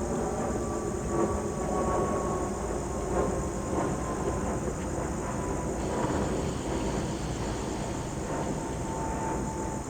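Dinner train rolling past with a steady rumble of locomotive and wheels on the rails. A thin high tone falls slowly in pitch through it.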